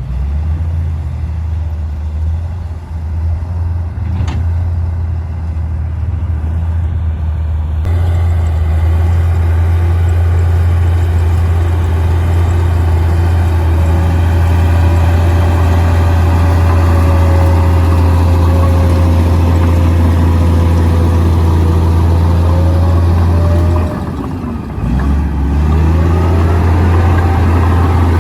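Komatsu D58P bulldozer's diesel engine running hard with a heavy steady rumble. It grows louder about a quarter of the way in, drops briefly near the end and then picks back up, with a faint wavering whine over it in the middle.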